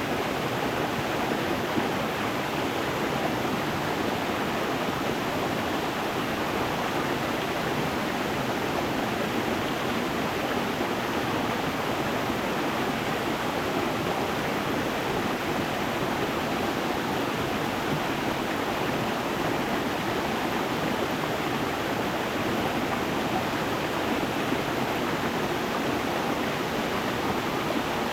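Water of a stream running over stones, an even, unbroken rush that stays steady throughout.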